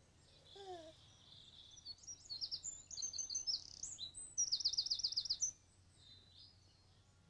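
Songbirds chirping, with a short falling call about half a second in, then quick high chirps and fast repeated trills that are loudest from about two seconds in until just past five seconds, after which only a few faint chirps remain.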